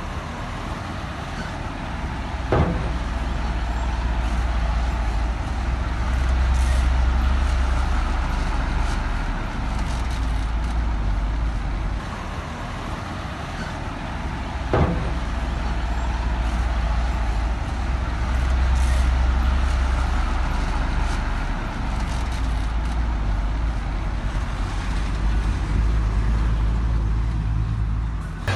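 Large bulldozer's diesel engine working under load, its deep note rising and easing several times, with two sharp metal clanks, one a few seconds in and one about halfway through.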